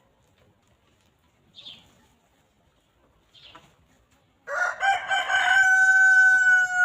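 Rooster crowing: a loud call that starts broken about four and a half seconds in, then holds one long steady note. Before it, two short faint high chirps.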